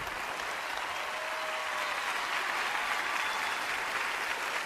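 Studio audience applauding steadily, a dense even clatter of clapping hands after a magic trick's reveal.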